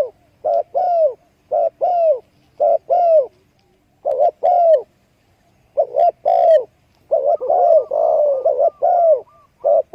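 Doves calling: short arched notes, mostly in pairs, about one pair a second, with a quicker run of overlapping notes in the second half.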